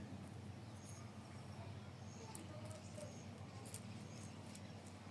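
Quiet outdoor ambience: a low steady hum with faint, short, high-pitched chirps every second or so.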